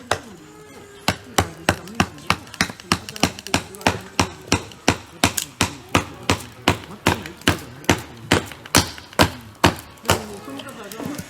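Wood being chopped: a steady run of sharp strikes, about three a second, from about a second in until shortly before the end.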